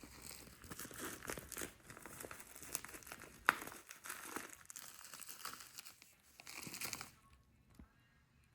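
Packaging being handled and crumpled: dense crinkling and rustling, with one sharp click about three and a half seconds in, dying down to near quiet about seven seconds in.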